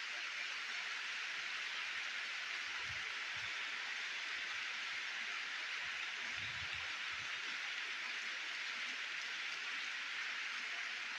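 A large crowd applauding, a dense, steady clapping that holds at an even level throughout.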